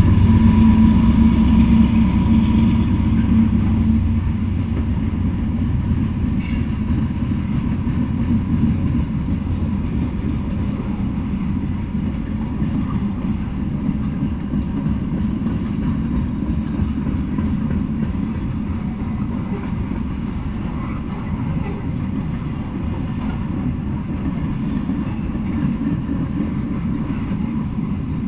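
Freight train rolling past close by. A diesel locomotive's engine hum stands out for the first few seconds and then fades, leaving the steady low rumble of freight cars running over the rails.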